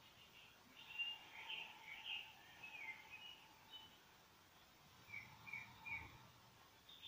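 Faint bird chirping: a cluster of quick twittering calls about a second in, then three short falling chirps around five to six seconds in, over a faint steady hum.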